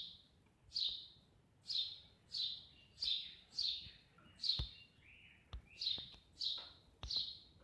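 Eurasian tree sparrow giving a steady series of short, sharp chirps, about ten of them at roughly one every 0.7 seconds. A few sharp clicks fall between the chirps.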